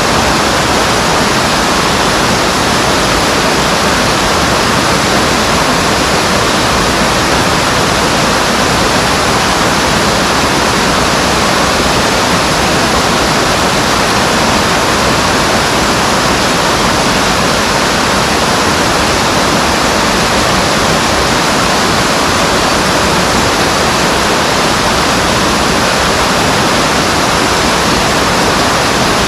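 Steady rush of a mountain stream's flowing water, loud and unbroken.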